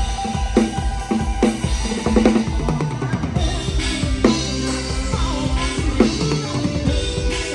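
A live band playing, with a PDP drum kit to the fore: kick drum, snare and rimshot hits in a steady beat over held bass and melody notes.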